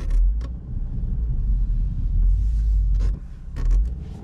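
Subaru WRX turbocharged flat-four engine running with a deep low rumble as the car bogs down in deep snow and gets stuck. Several sharp knocks, two at the start and a quick cluster about three seconds in.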